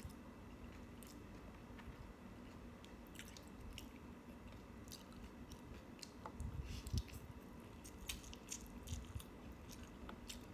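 Faint chewing and mouth sounds of a person eating rice, Spam and noodles by hand, with scattered small wet clicks and smacks that grow a little busier in the second half.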